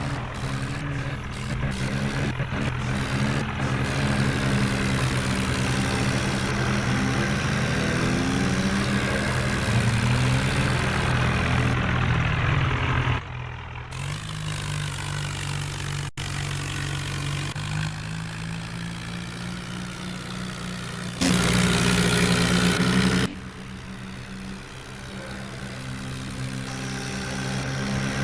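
Heavy diesel engines of farm machinery running and revving, the engine note rising and falling, with the sound jumping abruptly several times.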